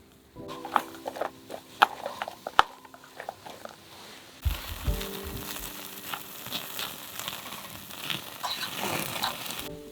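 Sharp clicks and crinkling of handling, then, about four and a half seconds in, food hitting a hot cooking surface with a low thud and sizzling steadily until it cuts off abruptly. Soft background music runs underneath.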